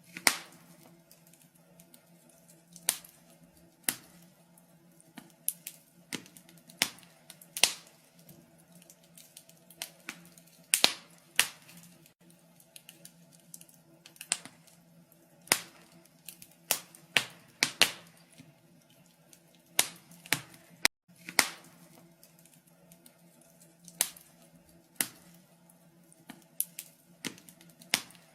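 Wood fire burning in a fireplace, crackling with irregular sharp pops and snaps of the burning logs, some much louder than others, over a faint steady low hum.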